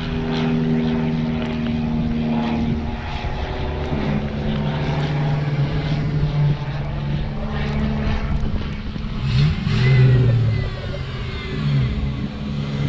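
Car engine running at low speed, its low note holding steady and stepping in pitch a few times, with a brief rev rising and falling about ten seconds in.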